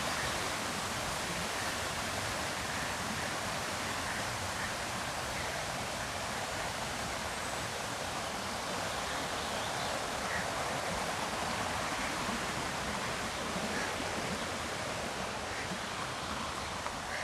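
Steady rush of river rapids: an even, unbroken water noise.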